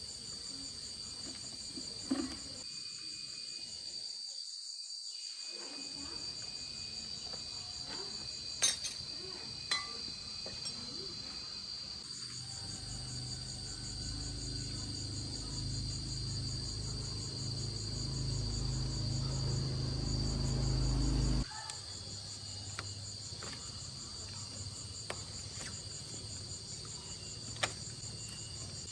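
Insects chirping steadily in the background, a high continuous trill with a fast pulsing texture. A few sharp taps sound now and then, and a low rumble builds for several seconds in the middle before cutting off suddenly.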